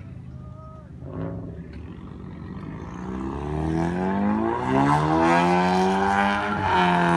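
Ford Mustang engine revving up as the car pulls away, getting steadily louder. The revs climb, drop briefly near the end, then rise again.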